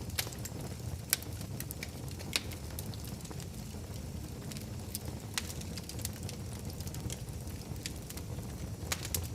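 Wood fire crackling in a fireplace: a steady low rumble of flames with sharp pops and snaps at irregular moments, the loudest about a second in and again a little later.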